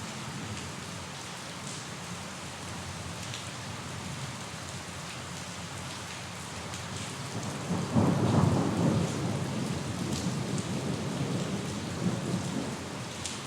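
Steady rain falling, with scattered sharp drops, and a roll of thunder coming in a little past halfway: a low rumble, loudest for about a second, then fading gradually.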